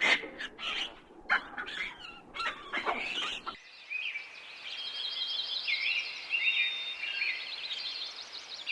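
A run of short, sharp animal calls, then after a sudden cut a songbird singing a varied song of high whistles and trills.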